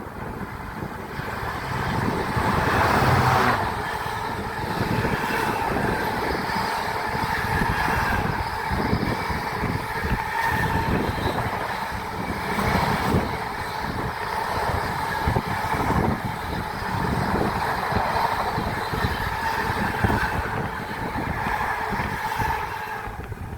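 Freight train passing close by: a continuous rolling rumble of wagons with many short knocks from wheels going over the track, loudest about three seconds in.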